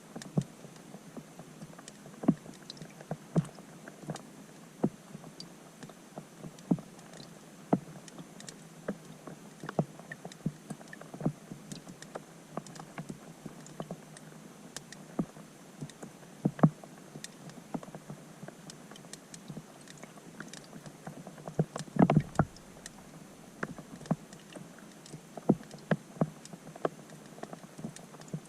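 Raindrops striking a pond's surface, heard from underwater: irregular sharp plinks over a steady hiss, with a louder cluster about 22 seconds in.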